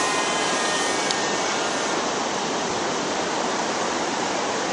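Águia 60 radio-controlled model airplane's engine running in flight, a steady rushing drone mixed with wind noise.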